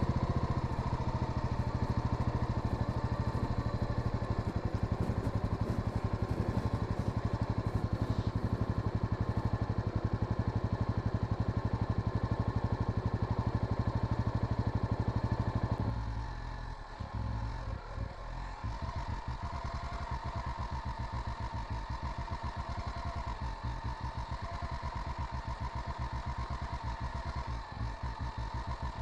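Honda Sahara 300 single-cylinder motorcycle engine running under way. About halfway through, the throttle closes and it drops to a quieter, slower, pulsing beat as the bike slows.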